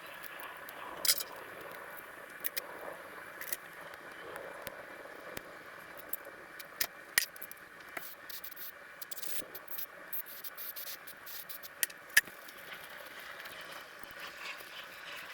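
Scattered light clicks and taps of small carburetor parts and hand tools being handled during disassembly, over a faint steady hiss.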